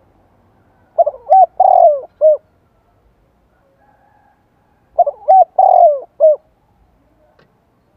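Spotted dove cooing: two phrases of about four notes each, one about a second in and another about four seconds later.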